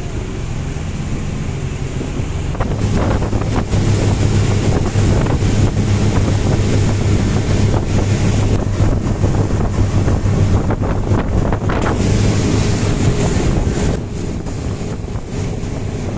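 Speedboat engine running with a steady low hum, under the rush of wind buffeting the microphone and water against the hull. It grows louder about three seconds in and eases off near the end.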